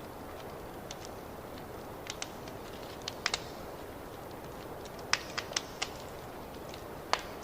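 Fireplace fire burning with a steady low roar and irregular sharp crackles and pops of burning wood, a cluster of louder pops a little past halfway and another near the end.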